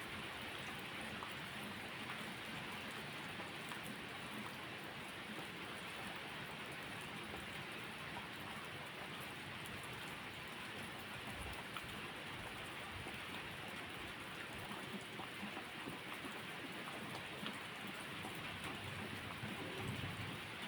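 Steady rainfall: an even hiss with a few faint scattered ticks.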